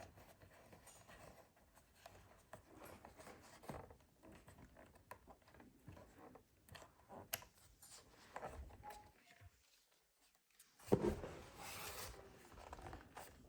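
Faint handling noise: small clicks, taps and rustling as parts and tools are handled, with a louder scraping, rustling stretch about 11 seconds in.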